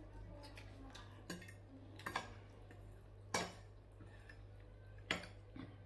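Cutlery clinking against dishes at a meal: about six sharp, separate clinks spread over a few seconds, the loudest a little past the middle and near the end.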